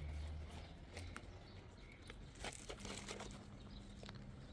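Faint rustling with a few short scrapes, and a low steady hum that starts about three seconds in.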